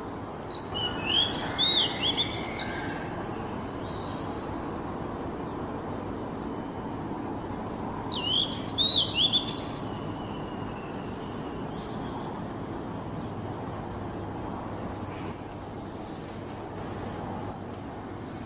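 Oriental magpie-robin (kacer) singing two short phrases of quick, rising-and-falling whistled notes, about a second in and again about eight seconds in, over a steady background hiss.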